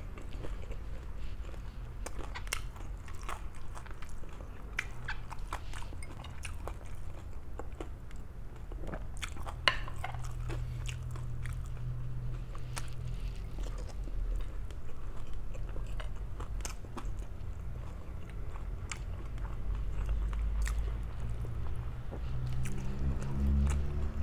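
A person chewing and biting food close to the microphone, with many small wet clicks and crunches and one sharper click about ten seconds in, over a steady low rumble.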